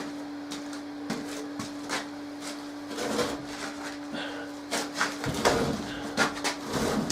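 Knocks, bumps and scraping as a heavy wooden anvil stump is shifted into place, getting louder and heavier from about halfway through. A steady low hum runs underneath.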